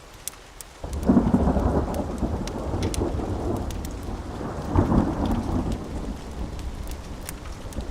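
Thunder rolling over steady rain: a low rumble breaks in about a second in, swells again about five seconds in, then fades. Scattered sharp ticks run through it.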